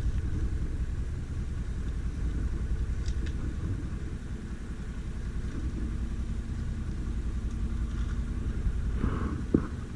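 Stels Guepard 850 ATV engine running with a steady low rumble. Near the end there is a brief sharp sound, after which it gets quieter.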